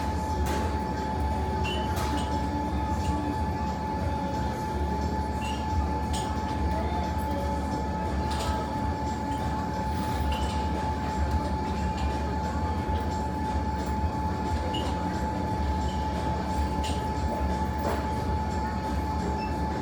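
Fireplace fire crackling with scattered sharp pops, over a steady low hum and a constant high-pitched tone.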